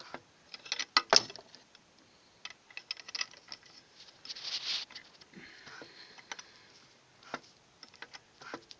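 Scattered light clicks and metallic taps, loudest about a second in, with a short scraping rush about halfway: hands handling parts of a disassembled diesel engine.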